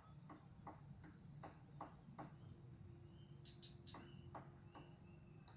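Frogs calling in short, sharp clicks, irregularly spaced at about two a second, with a few faint high chirping notes about halfway through.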